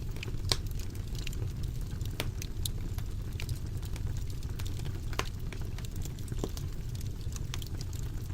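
Wood fire in a fireplace burning with a steady low rumble and frequent irregular crackles and pops, a sharper pop about half a second in and another about five seconds in.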